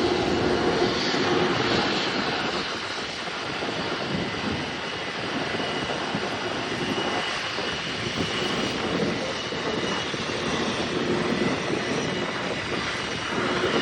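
Airliner engines running steadily: a dense, even rushing noise with a faint high whine over it, easing slightly mid-way.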